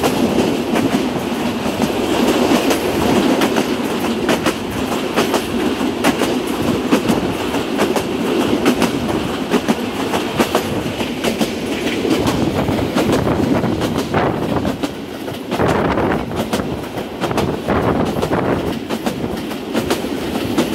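Passenger train coaches running over the rails, the wheels clicking and clacking over rail joints in a steady stream of sharp clacks.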